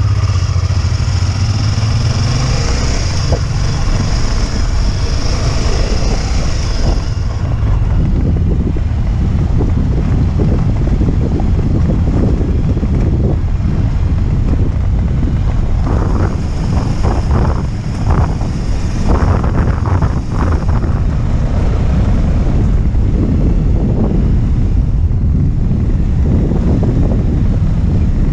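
Motorcycle running on the move, largely buried under heavy wind buffeting on the microphone.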